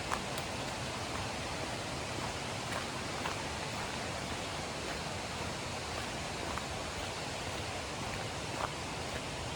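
River water running steadily, an even rushing wash, with a few faint scattered clicks over it.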